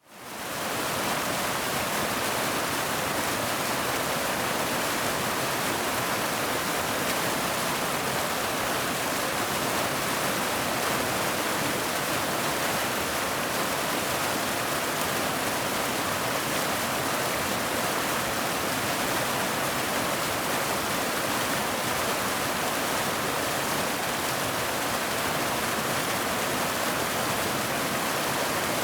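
Waterfall: a steady rush of falling water, fading in over the first second and then running on evenly.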